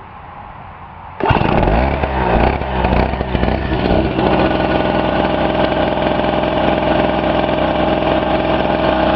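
Pulsar PG1202S portable generator's 72cc two-stroke engine starting about a second in, its speed wavering for a few seconds before settling into steady running.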